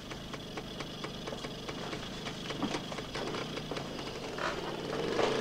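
Car engine running outside, a steady fast run of fine ticks; near the end it begins to rev up in a rising tone, as if pulling away.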